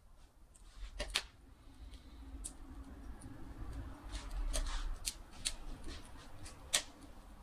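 Wood fire crackling: sharp, irregular pops and snaps a second or so apart over a low steady rumble, with a brief louder hiss of burning about halfway through.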